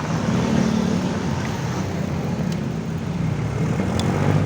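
Steady street traffic and road noise, heard while riding along a city road.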